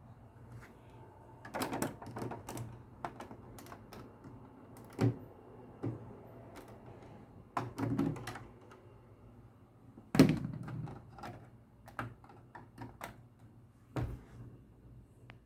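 Handling noise: irregular clicks, knocks and thunks as the Lego ship model and the camera are moved about, the loudest thunk about ten seconds in.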